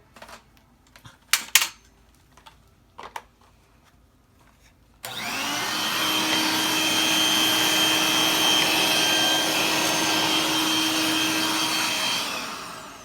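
A few light plastic clicks, then a Dirt Devil stick vacuum is switched on about five seconds in and runs steadily with a high whine. It is switched off near the end and winds down.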